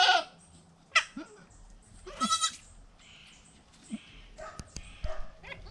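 Goats bleating: three short, high calls, the loudest right at the start, another about a second in, and a third about two seconds in. A few faint clicks follow near the end.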